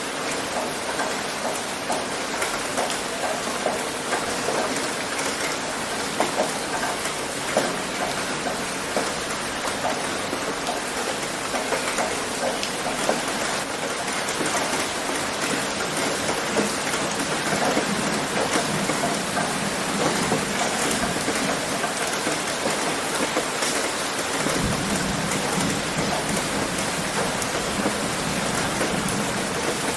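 Heavy rain drumming on a roof: a steady, dense patter of many drops. About 24 seconds in, a deeper low rumble joins under the patter.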